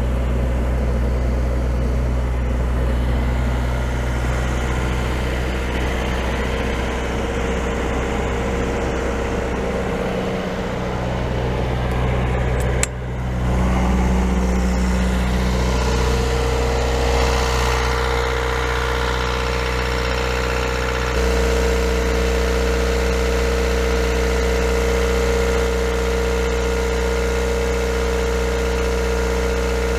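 Perkins 4-108 four-cylinder marine diesel engine running steadily. There is a short break about halfway through, and the tone changes about two-thirds of the way through.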